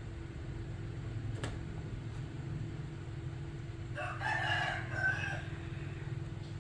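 A rooster crowing once, about four seconds in, a single drawn-out call of a second and a half, over a steady low hum.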